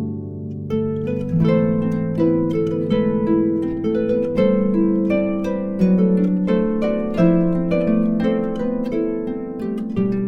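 Instrumental music played on harp: plucked notes ringing over sustained lower notes, a steady run of melody and chords.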